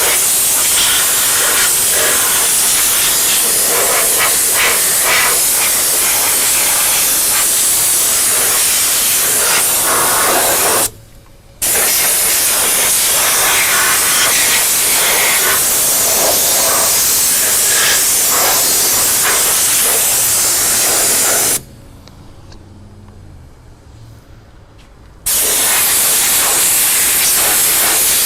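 Compressed-air blow gun hissing in long, loud blasts over the engine bay. It stops briefly about eleven seconds in, then again for a few seconds a little past the twenty-second mark before starting up once more.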